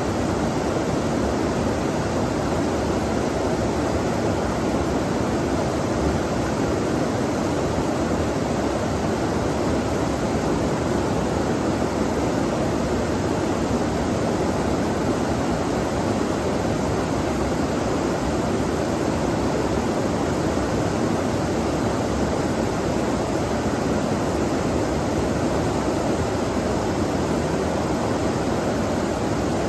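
Steady rush of flowing stream water, an even, unbroken noise with most of its weight in the low-mid range.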